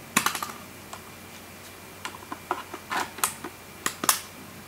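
A Canon EOS R5 camera body being handled as its battery is put back in. There are sharp plastic clicks and small knocks right at the start, a cluster around three seconds in, and another just after four seconds.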